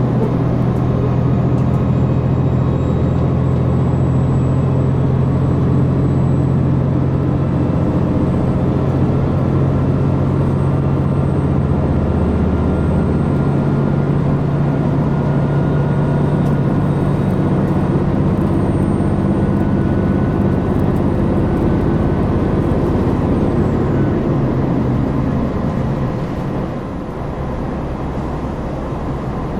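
KiHa 261 series diesel railcar's engine running hard under power as the train accelerates, heard from on board as a steady low drone. Its tone shifts about halfway through, and near the end the engine eases off and the sound drops.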